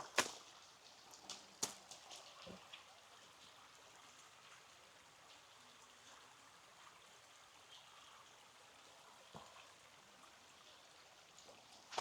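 Faint, steady trickle of flowing stream water, with a few footsteps in the first couple of seconds.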